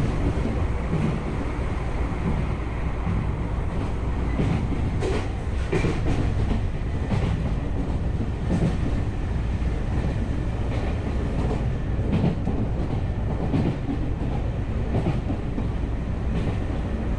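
Tokyu Oimachi Line electric commuter train running at speed, heard from inside the car: a steady rumble of wheels on track, with irregular clicks from the rail joints.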